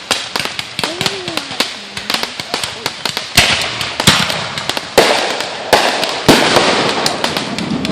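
Fireworks crackling and popping in quick succession, with five louder bangs in the second half, each trailed by a crackling hiss.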